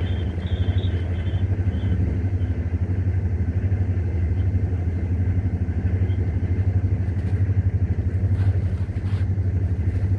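Steady low rumble of a moving vehicle running without a break, with a faint, broken high tone in the first couple of seconds.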